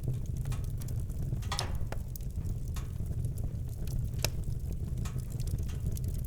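Campfire crackling, with scattered sharp pops, the loudest about one and a half and four seconds in, over a steady low rumble.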